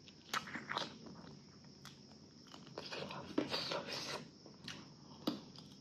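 Close-miked eating sounds: a person biting and chewing food, irregular wet smacks and crunches, busiest from about three to four seconds in.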